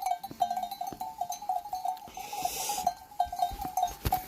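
A small bell on a lamb clinking over and over as the animal moves, with a short rustle about two seconds in and a few knocks near the end.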